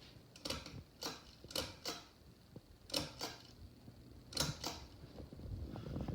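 Light, sharp clicks, mostly in close pairs and coming every second or so at irregular intervals, over a faint low hum.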